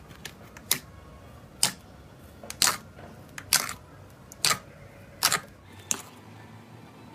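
Slime being worked by hand, giving sharp clicking pops about once a second.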